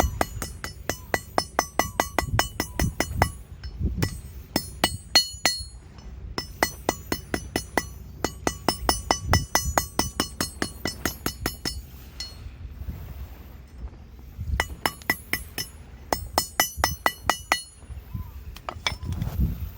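Hammer forging steel on an anvil: quick runs of ringing metal strikes, about four a second, stopping and starting again several times.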